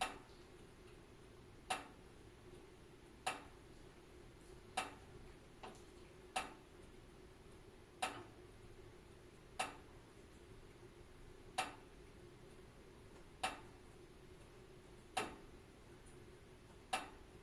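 Wood fire in a fireplace crackling: single sharp pops about every one and a half to two seconds, with a few softer ones between, over a faint steady background.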